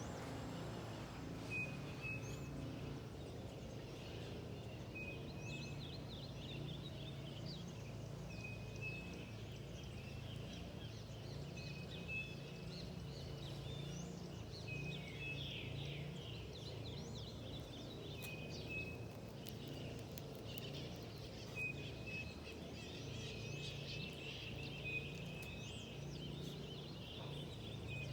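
Forest birds calling: one repeats a short, steady high note about every three seconds, while others give quick falling chirps, over a low steady background rumble.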